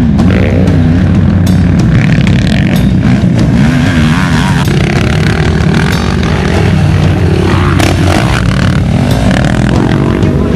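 Motocross race quad's engine revving hard, its pitch rising and falling again and again through the throttle and gear changes, with a few short knocks or clatters along the way.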